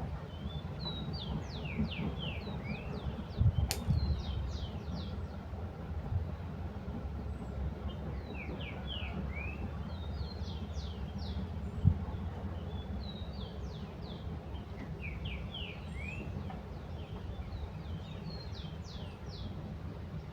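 A small songbird singing short phrases of quick, high descending notes, repeated every few seconds. A low rumble runs underneath, with a couple of soft thumps.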